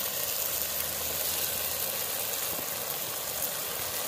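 Onion and tomato masala sizzling steadily in hot oil in a clay pot, an even frying hiss.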